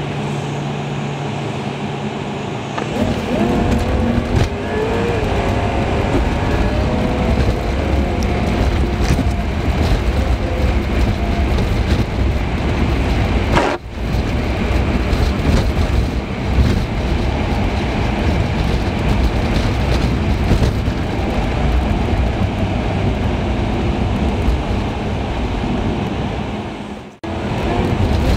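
Car driving, with engine and road noise picked up by a dash cam and sped up to three times normal speed. The sound cuts out briefly twice.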